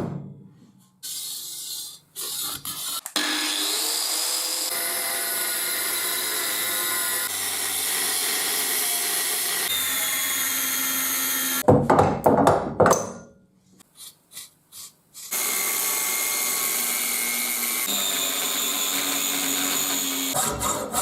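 Power tool working a steel railroad rail, in several short edited runs: a steady whine with several tones, broken by sudden cuts and a few short clattering bursts.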